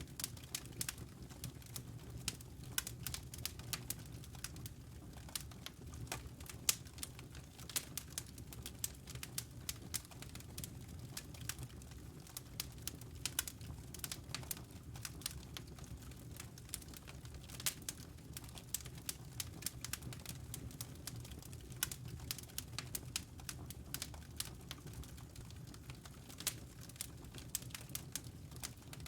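Wood fire crackling: dense, irregular snaps and pops over a low, steady rumble of burning logs.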